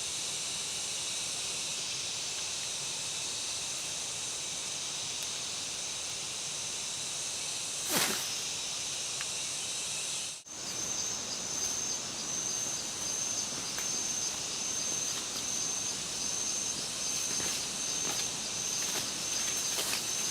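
Steady high-pitched insect chorus. There is a brief knock about eight seconds in, and after a short break about halfway a pulsing insect tone carries on.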